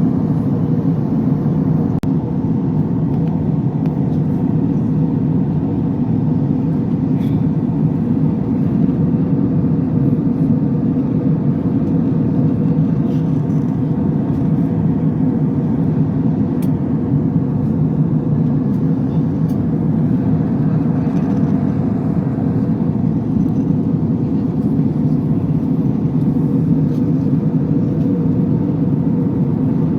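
Steady drone of engine and airflow noise inside an airliner's passenger cabin.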